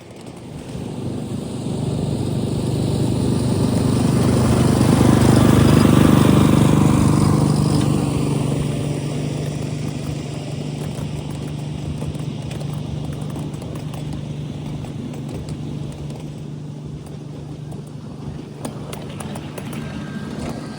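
A ridable 7.5-inch gauge miniature train passing, growing louder to its loudest about six seconds in and then fading, with a steady low hum under it.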